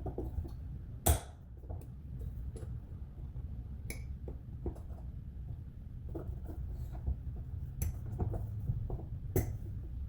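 Scattered small clinks and knocks of faucet parts and tools being handled, the loudest about a second in and another near the end, over a low steady hum.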